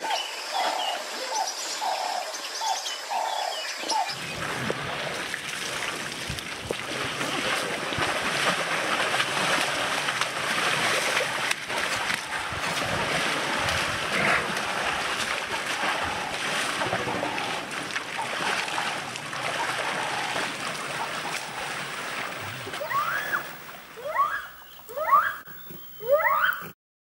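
A bird calls a repeated note about twice a second. From about four seconds in a steady splashing, rustling noise takes over. Near the end come a few short, sharp rising calls, and then the sound cuts off suddenly.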